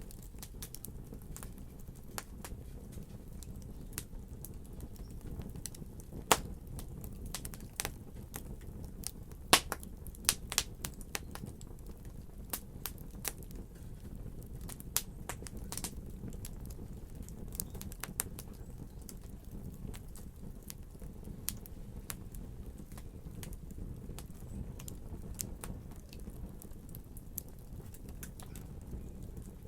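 Fire crackling: irregular snaps and pops over a low, steady rumble, with a few sharper, louder pops a little over a third of the way through.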